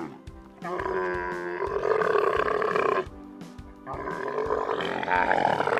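Cow mooing twice, two long moos a little under a second apart, over background music with a steady beat.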